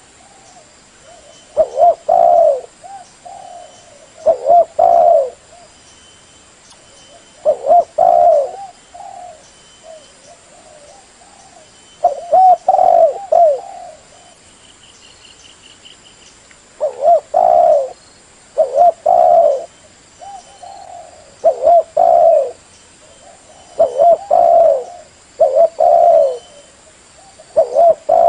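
Spotted dove cooing, a decoy bird's call used to lure wild doves: short phrases of a few coos, repeated every two to four seconds.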